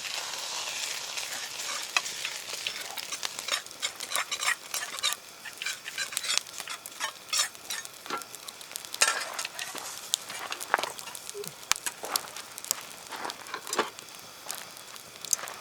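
Fried rice sizzling in a Uniflame camp wok while it is stirred, with a spatula clicking and scraping against the pan many times. The sizzle is strongest in the first couple of seconds.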